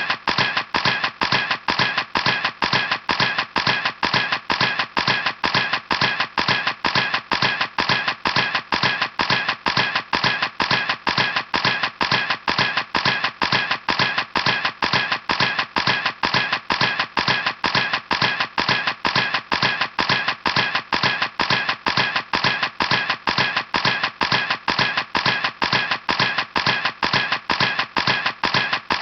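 Camera shutter clicking over and over in an even, machine-steady rhythm, about three clicks a second, each a sharp snap with a short fading tail.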